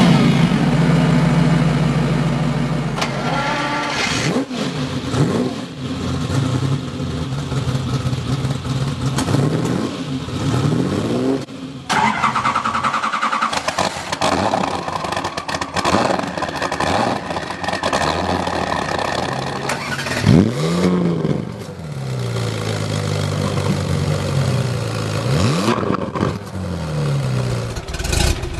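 Sports car V8 engines revving in turn, the revs rising and falling several times. It begins with a Mercedes-Benz McLaren SLR's 5.4-litre V8, and an abrupt change about twelve seconds in brings a Saleen S7 Twin Turbo's V8.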